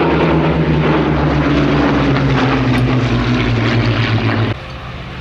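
Rolls-Royce Merlin V12 engine of a Second World War fighter flying by: a loud drone whose pitch slowly falls. About four and a half seconds in, it drops suddenly to a quieter, steadier engine drone.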